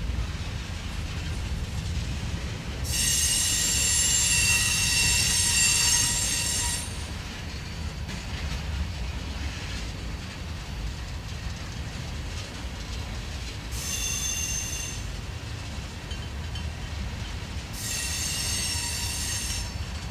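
Freight cars, covered hoppers and tank cars, rolling past with a steady low rumble of steel wheels on rail. The wheels squeal in high-pitched tones three times: loudest for about four seconds starting some three seconds in, briefly about fourteen seconds in, and again near the end.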